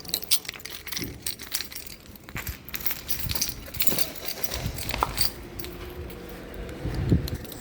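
Irregular light clicks and clatter of small hard objects being handled, with a few low thumps in the middle and near the end.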